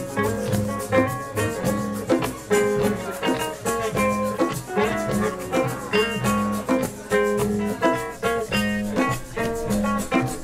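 A band playing instrumental music: guitar over drums and a shaker, with a steady beat.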